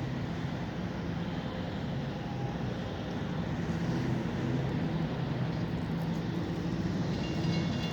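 Diesel locomotive engine of a CSX maintenance-of-way train running with a steady low throb that gets slowly louder. About seven seconds in, thin high squealing tones join it.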